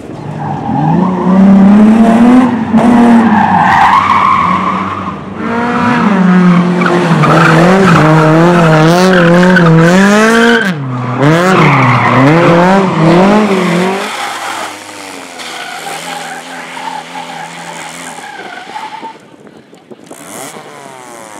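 Rally-style race car engine revving hard close by, the revs swinging up and down again and again as the driver works the throttle through the slalom. After about 14 seconds it drops to a quieter, steadier engine note.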